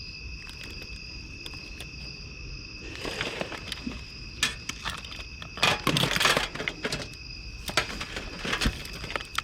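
Crickets chirring steadily in the background. From about three seconds in, small objects are handled and rummaged through, with irregular clicks, rattles and bursts of rustling.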